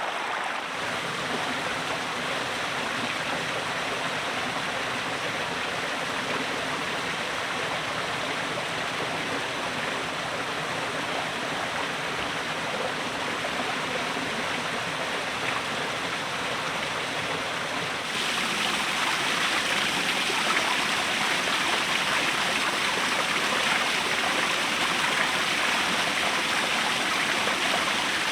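Steady rushing of flowing water, like a stream, which gets louder and brighter about two-thirds of the way through.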